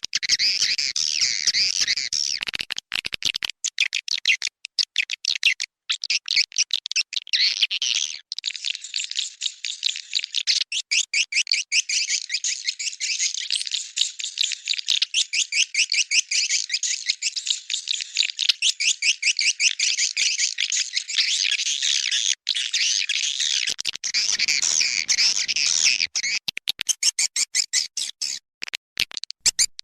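Swiftlet call-sound recording of the kind played to lure edible-nest swiftlets into a nesting house: a dense, rapid twittering of many high chirps and clicks, broken by a few short gaps.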